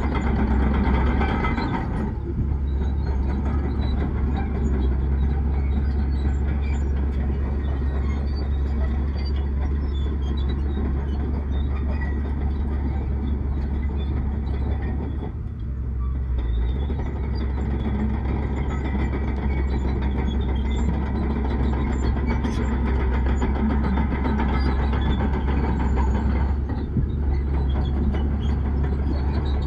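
Heavy diesel earthmoving machinery running steadily with a deep low rumble, easing off briefly a few times.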